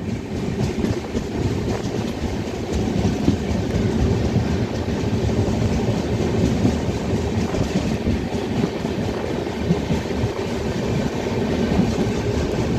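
Indian Railways passenger coach running along the track, heard from an open doorway: a steady rumble of the wheels on the rails with a few faint clicks.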